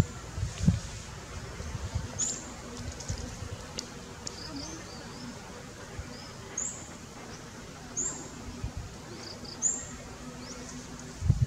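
Short high chirps repeating every second or two, typical of a small bird calling, over a low rumble of wind or handling noise with a few dull thumps.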